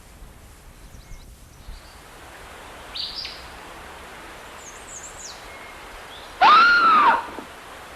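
Outdoor ambience with a steady hiss and birds chirping briefly now and then, then one loud arching bird call lasting under a second near the end.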